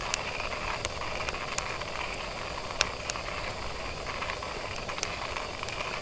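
Wood fire burning in a steel fire pit, a steady hiss with sharp crackles and pops scattered through it, one loud pop about three seconds in.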